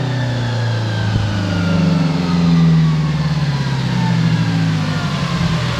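Engine of a heavily modified 2007 Subaru Impreza WRX STI, a turbocharged flat-four, with its revs falling steadily as it winds down. It gets a little louder around the middle.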